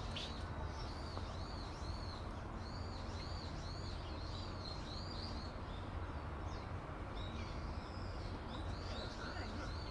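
A small bird calling in a rapid run of high, arching chirps, two or three a second, over a steady low outdoor rumble.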